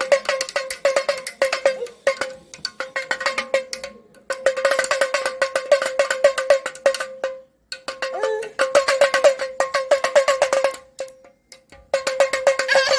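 A damroo (damaru, small hourglass hand drum) being shaken in rapid spells of fast, even beats, each stroke ringing at the same pitch, with short pauses between about five runs.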